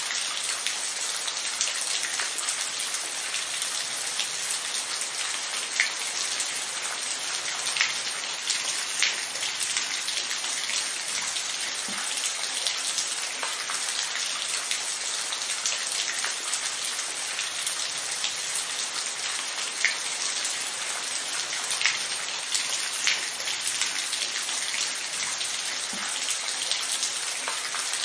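Steady rain falling, an even hiss with scattered louder individual drops hitting a surface.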